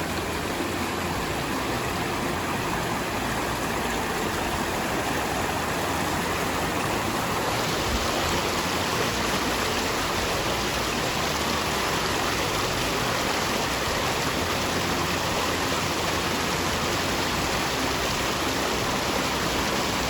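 Waterfall rushing steadily, a constant wash of falling water whose hiss grows a little brighter about seven seconds in.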